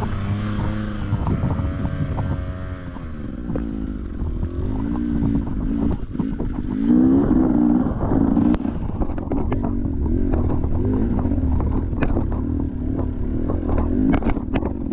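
Enduro dirt bike engine revving up and down as it is ridden over rough trail, with scattered knocks and clatter from about eight seconds in.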